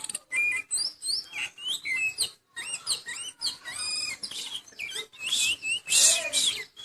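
Oriental magpie-robin (kacer) singing: a varied stream of quick whistled notes, slurred up-and-down phrases and chirps, in short bursts with brief pauses between them.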